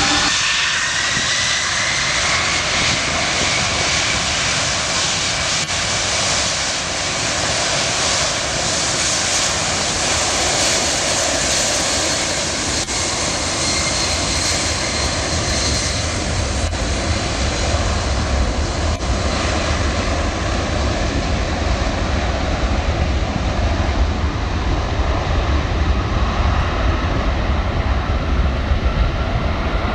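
Jet airliner engines, loud and steady, with a whine that rises in pitch over the first few seconds. A deep low rumble comes in about halfway through.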